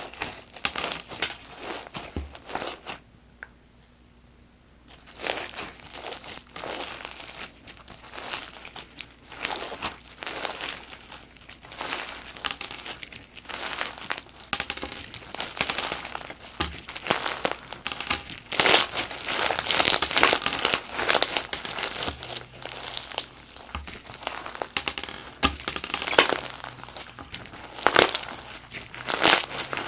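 Fishbowl crunch slime being squeezed and pressed, its small plastic fishbowl beads crackling and popping in dense runs. There is a short pause a few seconds in, and the crackling grows louder and denser in the second half.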